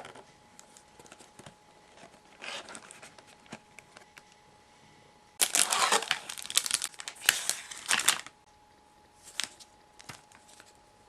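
Packaging being handled, crinkled and torn open. A few light rustles come first, then a loud stretch of tearing and crinkling lasts nearly three seconds, followed by a couple of short rustles.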